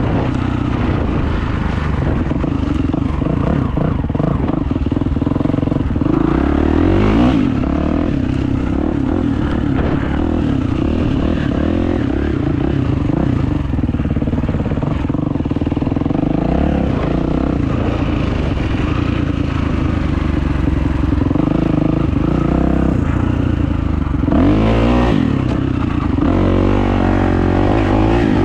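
Kawasaki motocross bike's engine running under way, its pitch rising and falling with the throttle several times.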